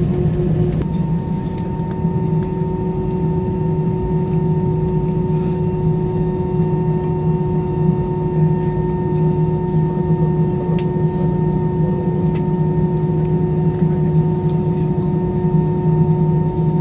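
Steady cabin drone inside an Airbus A320 after landing: a low hum with several steady whining tones over an even rush. A higher tone joins about a second in.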